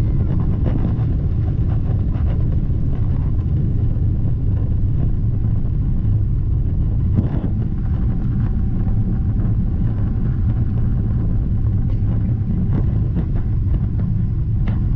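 Steady, loud rumble of jet engines and airflow heard inside the cabin of a Boeing 777-300ER, with a single short click about seven seconds in.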